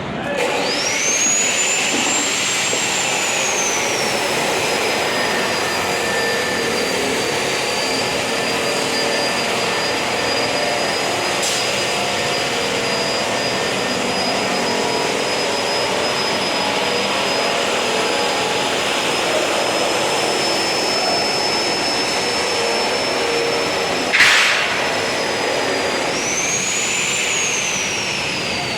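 A high-speed motor whining over a general construction din. It speeds up at the start, runs at a steady, slightly lower pitch, then speeds up again near the end and winds down. A single sharp knock comes shortly before the second speed-up.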